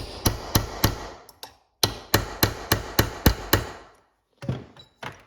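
Hammer striking a chisel-pointed punch, metal on metal, to cut and collapse a transmission bushing out of its bore. There is a run of about five quick blows, a short pause, then about eight more at roughly three a second, and two lighter blows near the end.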